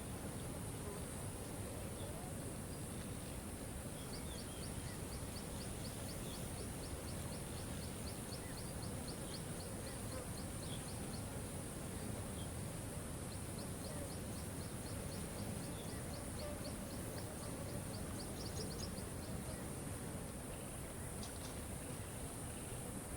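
Waterfall rushing steadily. Over it, a fast run of high ticking notes, about five a second, comes twice: from about four seconds in to eleven, and again from about thirteen to nineteen.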